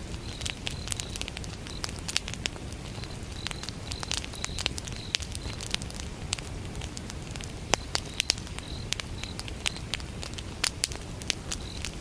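Wood fire burning, with frequent sharp crackles and pops over a low rumble of the flames. Crickets chirp in short repeated runs over it.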